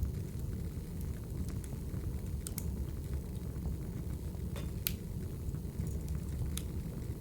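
Wood fire burning in a fireplace: a steady low rumble with scattered sharp crackles and pops, the loudest pop about five seconds in.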